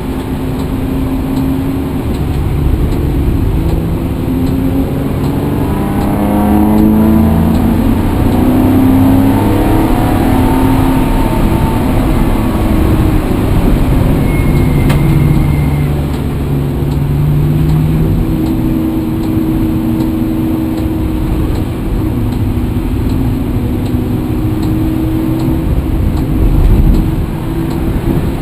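Vehicle engine running under way, a continuous low rumble whose pitch rises and falls through the first half and then holds steadier.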